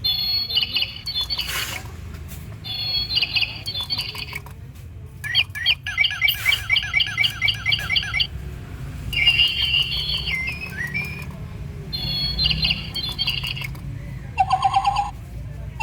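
Electronic toy bird chirping: bursts of rapid, high, evenly repeated chirps about a second long, separated by short pauses. Near the end it switches to a lower pulsing chirp pattern.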